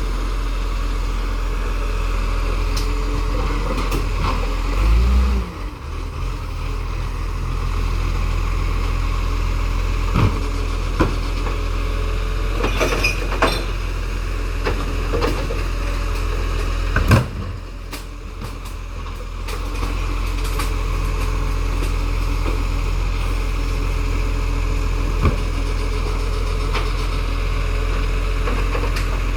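Recycling truck's engine running steadily, with scattered metallic clanks and knocks, the loudest about two-thirds of the way through, and the engine note dipping twice.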